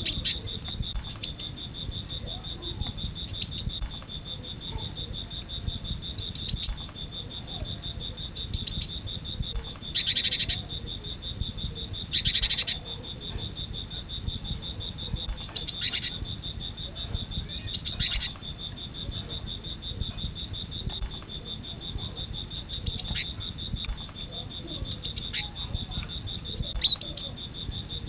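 Cinereous tit (gelatik batu) singing: short clusters of quick, falling whistled notes, repeated every couple of seconds. Underneath is a steady high-pitched insect tone, and two short harsh hissing bursts come about midway.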